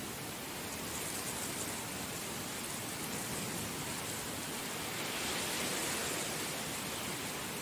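Heavy rain falling in a steady, dense hiss, swelling a little about five seconds in.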